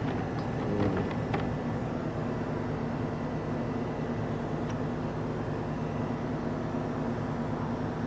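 Steady machine hum holding an even pitch, with a few light clicks and taps in the first second and a half.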